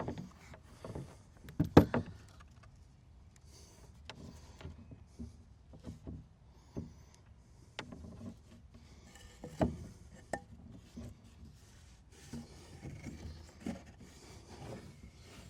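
Irregular knocks, clicks and scrapes of wooden boards being handled and set in place, the loudest knocks about two seconds in and again near ten seconds.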